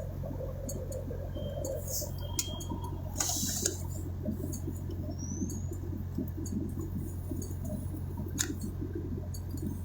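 Steady low hum of an idling vehicle engine, with a few faint clicks and rustles over it.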